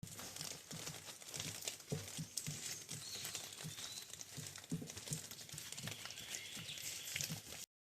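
Footsteps of a hiker walking along a woodland trail, about two steps a second, with a light crackle under each step.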